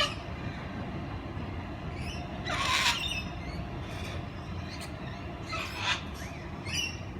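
Two harsh parrot squawks, about two and a half seconds and five and a half seconds in, over a steady low rumble.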